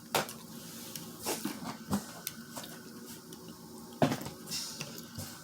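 Close-up eating and food handling from a seafood boil: several sharp clicks and knocks, the loudest near the start and about four seconds in, with quieter handling sounds between.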